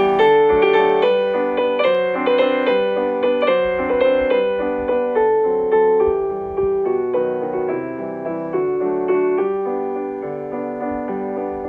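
Background music played on piano: a gentle melody of struck notes, each fading after its onset.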